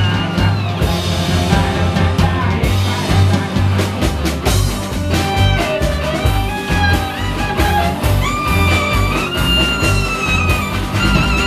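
Klezmer-punk band playing live, with double bass and drums keeping a steady beat. About halfway through, a melody line of long, sliding notes comes in over it.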